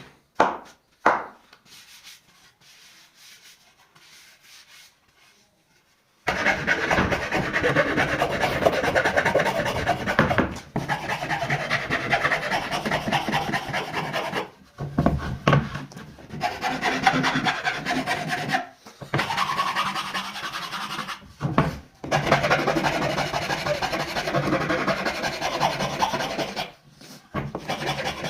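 Wooden cricket bat being abraded by hand, a rough rubbing-and-scraping of wood. It comes in long runs of rapid strokes, starting about six seconds in and stopping briefly several times.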